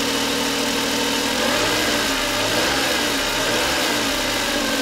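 Suzuki K6A 660 cc three-cylinder engine idling, heard close up with the seat raised over the engine bay. From about a second and a half in, its note wavers unevenly for a few seconds, then settles back to a steady idle.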